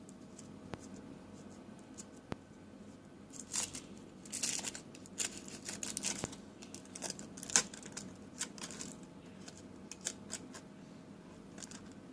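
Close handling noise: rustling and scraping with scattered light clicks, bunched between about three and nine seconds in.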